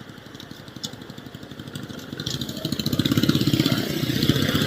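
Motorcycle engine running, picked up by an action camera's built-in microphone; it grows steadily louder from about two seconds in as the bike speeds up.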